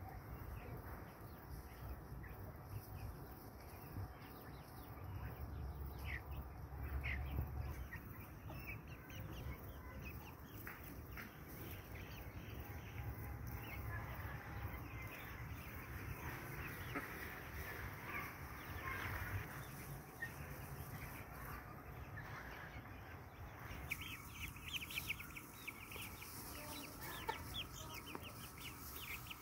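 Brahma hens and roosters clucking, with short calls scattered throughout and coming thicker near the end.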